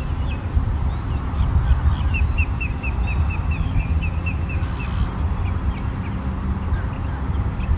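Songbirds chirping, one of them repeating a short note about four times a second for a few seconds, over a steady low rumble.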